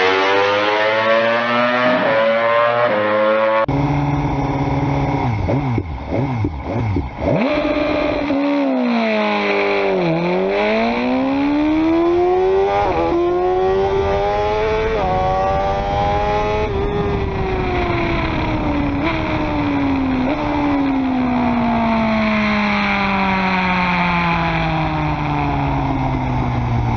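Sport motorcycle engine revving hard through the gears. Its pitch climbs and then drops sharply at each shift, dips low about ten seconds in, and later falls away slowly. The sound changes abruptly near four seconds in.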